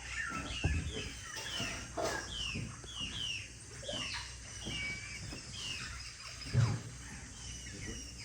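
Several rainforest birds calling, a quick series of short, falling chirps overlapping one another. Two low thumps, the louder one near the end.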